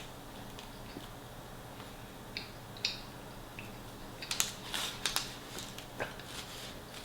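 Close-up eating sounds: biting into and chewing a chicken shawarma wrap. Scattered moist, crackly clicks, busiest about four to five seconds in.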